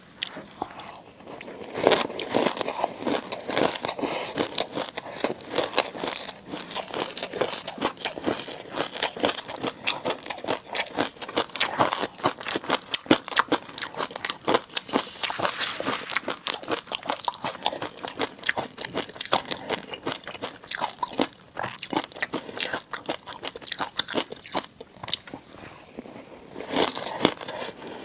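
Close-miked ASMR eating of seafood: a dense, continuous run of sharp wet clicks and crunches from biting and chewing.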